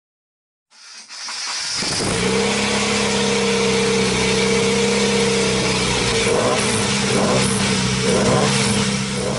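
A car engine running loud and steady, cutting in about a second in and fading out near the end.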